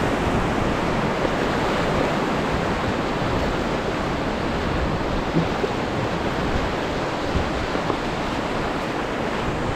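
Trishuli River whitewater rushing steadily as a raft is paddled through a rapid: a dense, even noise of churning water with no break.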